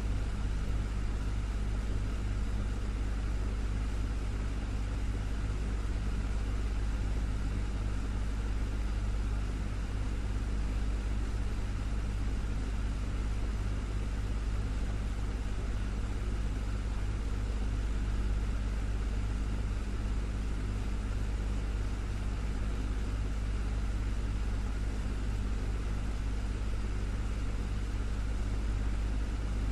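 Desktop fan running at a steady speed: a continuous, even whir with a low hum.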